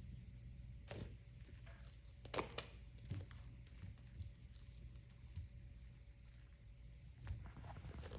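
Faint rustling and a few soft clicks over a low steady hum, with the clearest cluster of rustles a little over two seconds in.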